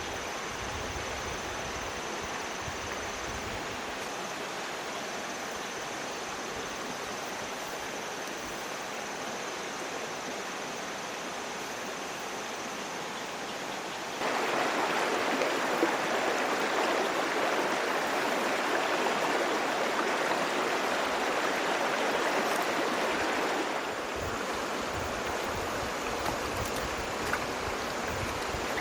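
Water running steadily, like a small stream. It gets noticeably louder about halfway through for roughly ten seconds, then drops back.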